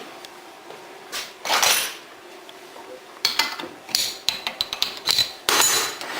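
Intermittent metallic clattering and scraping: a couple of scrapes, then a quick run of clicks and rattles, then another scrape near the end.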